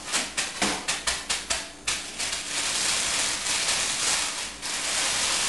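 Metal pots clattering and knocking together in a quick run of sharp clicks for about two seconds, followed by a steady hiss that fades a little near the end.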